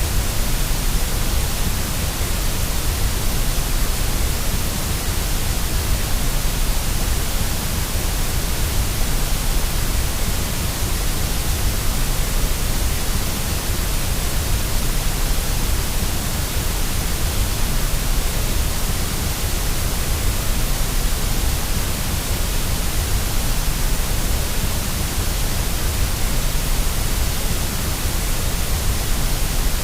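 Steady white noise for lulling a baby to sleep: an even, unchanging hiss with a strong low rumble beneath it.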